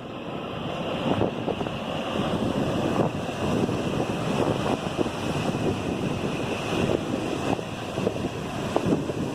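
Strong wind buffeting the microphone, with the rumble of rough surf breaking on the shore.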